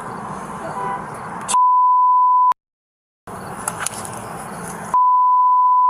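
Two one-second censor bleeps, each a pure steady 1 kHz tone, redacting speech over low outdoor background noise. The first cuts to dead silence for under a second before the background returns.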